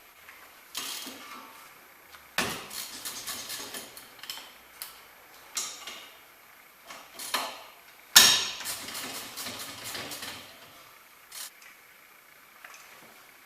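Metal hand tools working on a car, in bursts of rapid metallic clicking with scattered single clinks between. The two loudest bursts come about two and eight seconds in.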